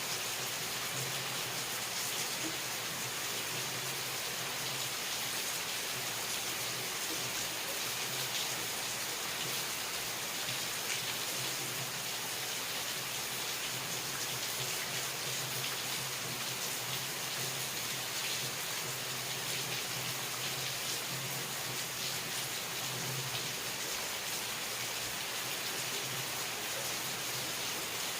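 Steady rain falling, an even hiss with scattered drop ticks, under a faint low hum.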